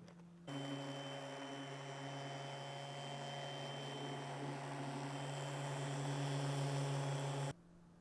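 An electric motor runs with a steady hum and a rushing noise, switching on abruptly about half a second in and cutting off sharply shortly before the end, growing a little louder as it runs.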